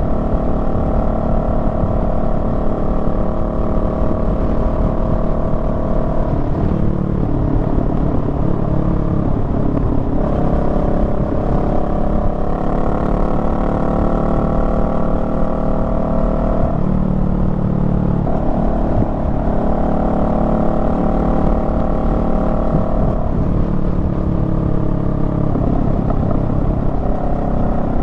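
Honda Rebel 500's parallel-twin engine running under way. The engine note drops and rises in pitch several times as the throttle and gears change.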